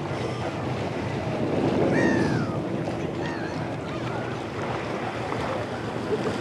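Wind on the microphone and waves breaking on the shore, with gulls calling briefly a couple of times about two seconds in.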